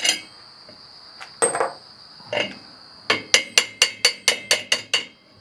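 Hammer tapping a part into a steel bracket on a disc harrow to seat it fully: a few spaced metallic taps, then a quick run of about ten lighter taps, about five a second.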